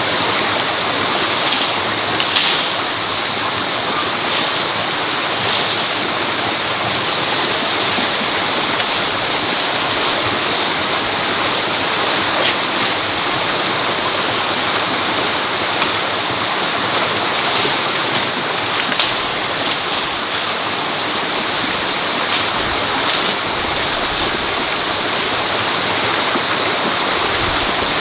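Steady rushing of flowing water, with a few faint clicks scattered through it.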